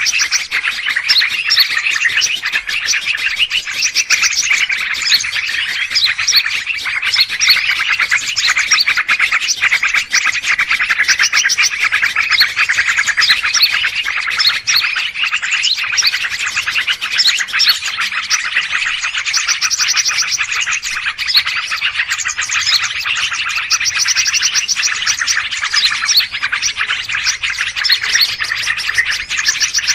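A dense, busy chorus of many small songbirds chirping and twittering over one another, with rapid trills throughout: a noisy bird-chatter recording of the kind used as a lure call to attract wild birds.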